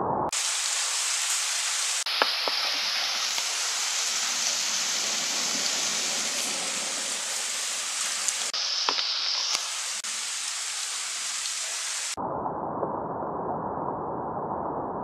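Steady hiss of heavy rain, with a few faint ticks. About twelve seconds in it cuts abruptly to a duller, muffled rush.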